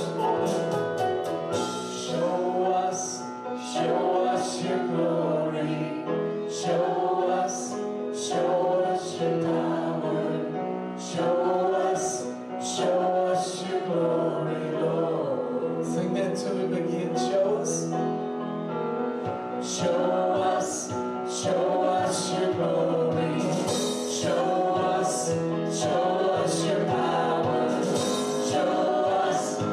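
Group of voices singing a hymn together, held notes with sung words throughout.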